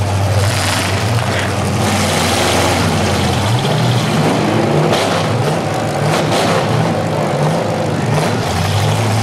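Demolition derby car engines running loud and revving hard, pitch swinging up and down through the middle as the cars push against each other with wheels spinning. Two sharp knocks about five and six seconds in.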